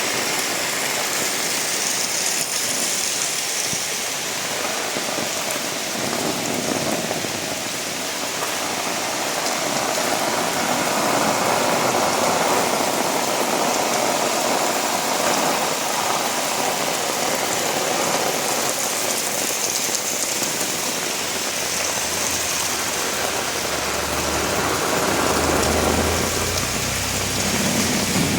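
Heavy rain falling, a steady, dense hiss that swells a little at times, with a low rumble joining in during the last few seconds.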